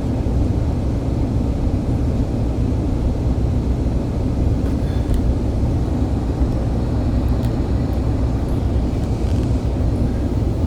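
Steady low rumble of a moving vehicle running continuously, with a few faint ticks.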